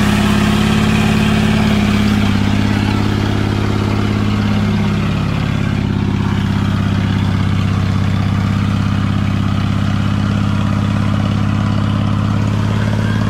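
Chevy S10 truck engine held at steady high revs under load. Its pitch sags briefly about four seconds in, then recovers.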